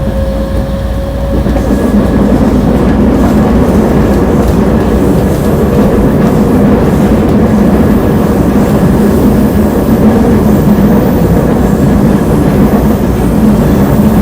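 Nankai electric train set 2036F running along the track with a steady heavy rumble from wheels and rails, with some clickety-clack. The noise swells about a second and a half in.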